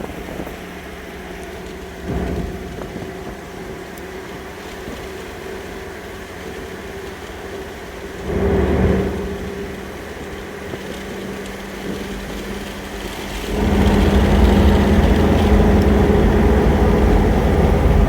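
Mercedes turbo diesel in a 1994 Toyota 4Runner cruising at highway speed, heard from inside the cab: a steady engine drone with tyre noise. It gets clearly louder and deeper about three-quarters of the way through.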